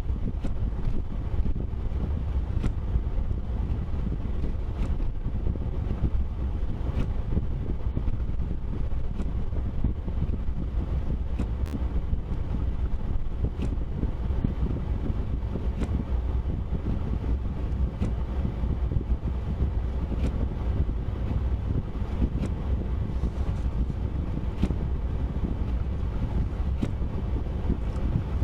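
Steady low rumble of a vehicle driving, with wind noise and a few faint scattered clicks.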